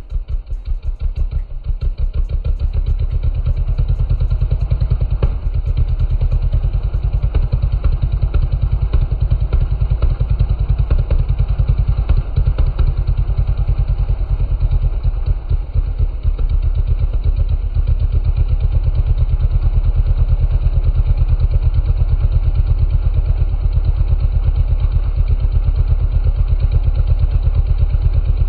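Honda Grom mini bike engine idling after a cold start through a racing exhaust with no spark arrestor, loud. The idle is uneven and wavering for about the first half, then settles into a steady beat as it warms up.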